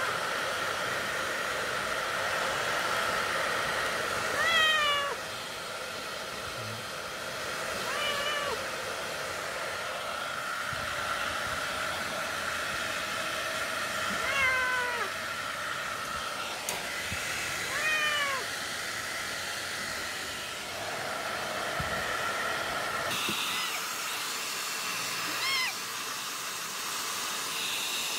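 A cat meows about five times, each a short call falling in pitch, over the steady whir of a hair dryer blowing on it. The dryer's tone shifts near the end. The meows are the cries of a cat that hates being blow-dried.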